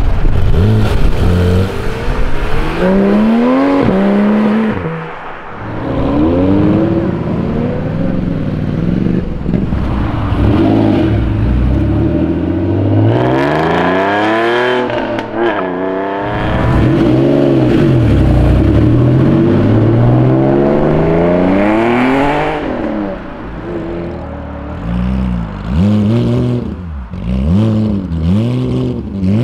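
Sports car engines revving hard as cars pull away one after another, among them Porsche 911 GT3 RS flat-sixes and a TVR. The pitch climbs and falls repeatedly with each burst of throttle.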